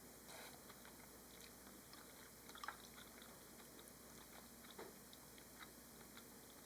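A person chewing food at close range, faint soft clicks and crunches over a low steady hum, with a slightly louder bite about two and a half seconds in.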